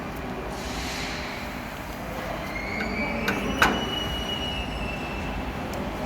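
Steady metal-workshop machine noise with high whining tones, and one sharp metallic clack a little past halfway.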